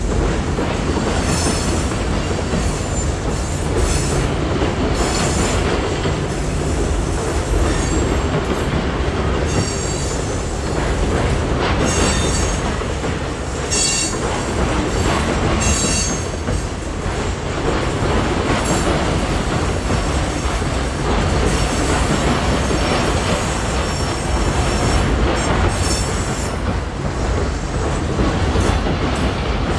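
Freight train rolling steadily, with a continuous rumble and clatter of wheels on rail and short high wheel squeals, most of them in the middle stretch.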